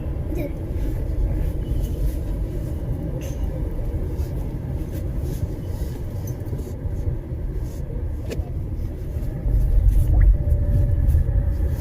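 Steady low rumble of a car on the move, heard from inside; it grows louder for about a second near the end.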